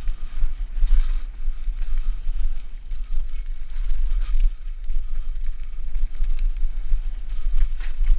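Wind buffeting an action camera's microphone during a mountain bike ride: a gusty, fluttering low rumble, with a few faint clicks and rattles from the bike.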